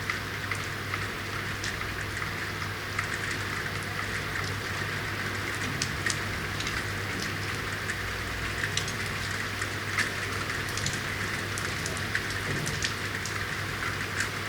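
Steady rain falling in a city: a continuous hiss with many scattered sharp drop ticks, over a low steady hum.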